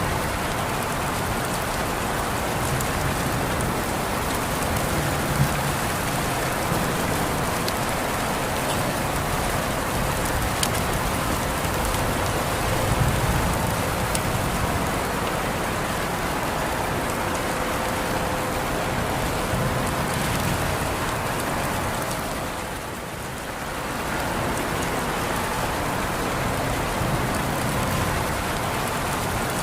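Steady rain falling, with scattered separate drops ticking through it; the rain briefly softens about three quarters of the way through, then returns.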